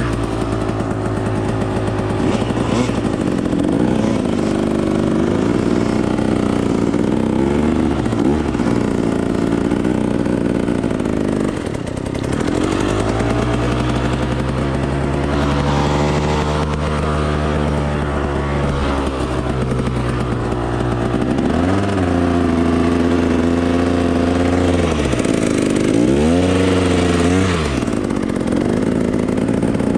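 Dirt bike engine being ridden, its revs climbing and dropping several times as the throttle is worked.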